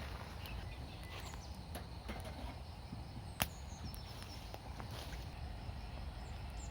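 Quiet outdoor background rumble with scattered small clicks and knocks, one sharp click about three and a half seconds in.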